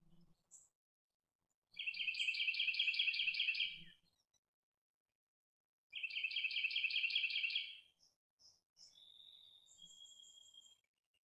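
A songbird sings a fast trill of rapidly repeated notes, twice, each lasting about two seconds. Softer, high, thin chirps and a short whistled note follow near the end.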